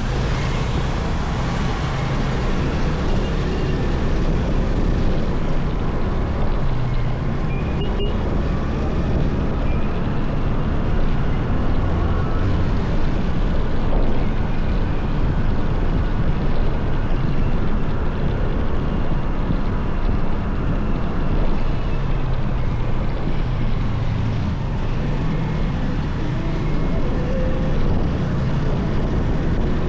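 Motorcycle riding through city streets: the engine running steadily, its low note rising and falling a little with speed, over a continuous rush of wind and road noise.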